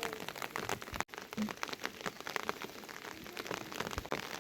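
Heavy monsoon rain falling, with many sharp, separate drop hits on a near surface over a steady hiss of rain. The sound cuts out for an instant about a second in.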